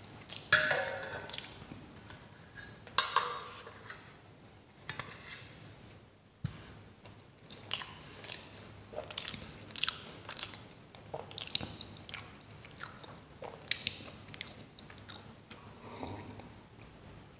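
Close-miked chewing and biting of stuffed paratha. A few loud, crunchy bites come in the first five seconds, then quicker, softer chewing and lip smacks. Near the end there is a sip from a glass of cola.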